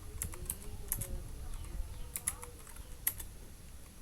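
Computer keyboard being typed on: quick, irregular keystroke clicks.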